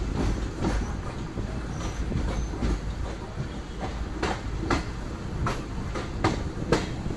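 Passenger train coach running along the track: a steady low rumble with the wheels clicking over rail joints, the clicks coming about twice a second in the second half.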